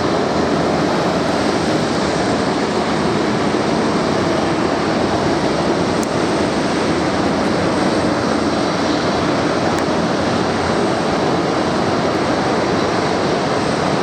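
Airbus A330 jet engines running at taxi power, a steady even noise with no change in level.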